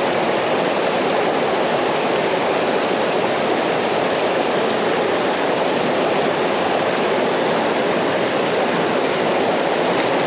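Creek water rushing over rocks, a steady, even hiss close to the microphone.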